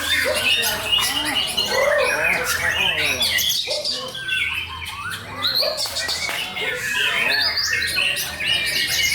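White-rumped shama (murai batu) singing a fast, varied song of quick whistled sweeps and chattering phrases, barely pausing.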